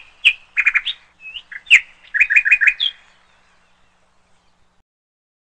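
Bird chirping: runs of quick, high tweets and short upward whistles, stopping about three seconds in.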